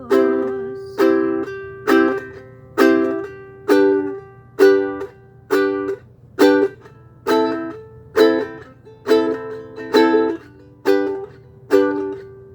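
Ukulele strumming chords in a steady rhythm, about one strum a second, many with a quick second stroke, moving through changing chords with no singing.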